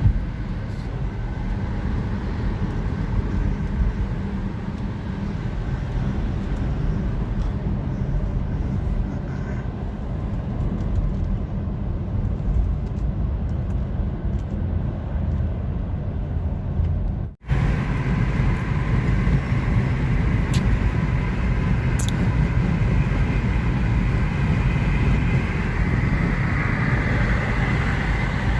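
Steady road noise of a moving car heard from inside the cabin: engine and tyre rumble. It cuts out briefly about two-thirds of the way through, and afterwards a tyre hiss grows louder near the end.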